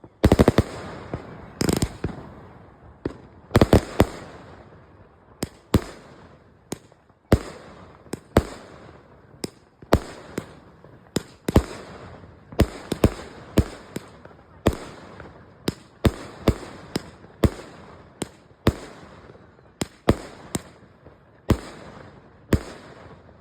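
Fireworks exploding in an irregular string of loud bangs, about one to two a second, each with a short fading tail; the biggest bangs come in the first few seconds.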